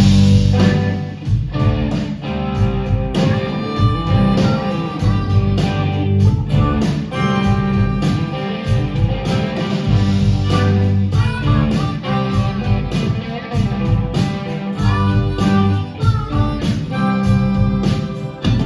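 Live rock band playing an instrumental introduction, with guitars, drums and bass and sustained melodic notes over a steady beat.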